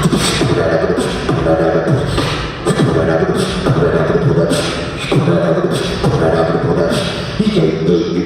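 Solo beatboxer performing a bass-driven beat: hummed, pitched bass lines under a repeating pattern of sharp snare-like vocal hits.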